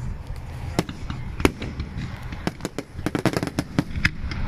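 Fireworks popping and crackling: a rapid, irregular run of sharp cracks that grows thickest about two and a half to four seconds in.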